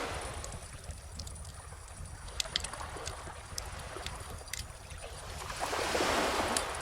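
Wood fire crackling with scattered sharp pops over gentle ocean waves: one wash fading right at the start and a second swelling up near the end. A low steady rumble runs underneath.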